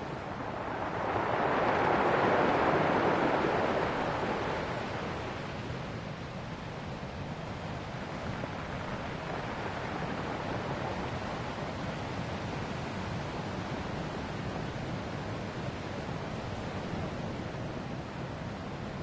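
Ocean waves on a shore: one wave swells up and breaks a second or two in, then settles into a steady wash of surf.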